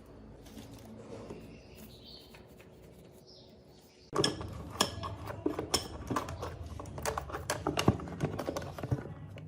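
Workshop handling noise from motorcycle restoration work. Faint for the first few seconds, then from about four seconds in a dense run of irregular clicks and knocks of tools and parts being handled.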